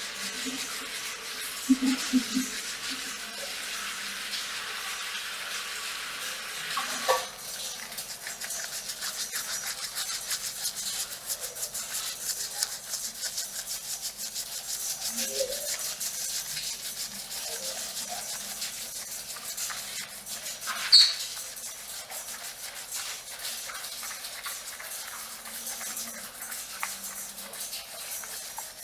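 Hair being shampooed, fingers scrubbing a lathered scalp, under a steady patter of rain on a metal roof. A brief sharp squeak comes about two-thirds of the way in.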